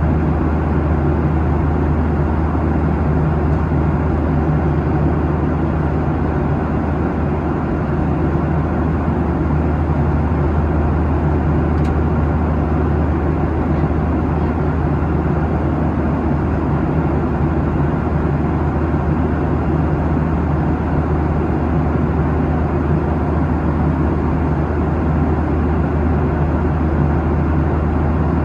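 Steady cabin noise inside a Boeing 737-800 at cruise: the low drone of its CFM56-7B engines and air rushing past the fuselage, with no change in pitch or level.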